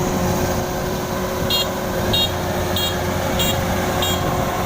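Kubota rice combine harvester engine running steadily, with an electronic warning beeper sounding five short high beeps about every 0.6 seconds in the second half.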